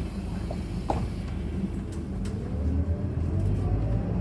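Ethanol-fuelled Scania Citywide city bus running, its engine a steady low hum with a sharp click about a second in. From about halfway, a faint rising whine from the ZF automatic gearbox comes in as the bus picks up speed.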